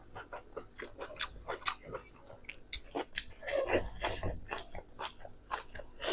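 Close-miked mouth sounds of someone biting and chewing pork, with irregular crunchy, wet clicks. The sound gets denser and louder for about a second a little past halfway.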